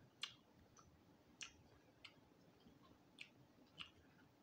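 Close-miked chewing of crispy roasted quail with the mouth closed: about five sharp, irregular crunches and mouth clicks as the crisp skin and small bones break, over quiet room tone.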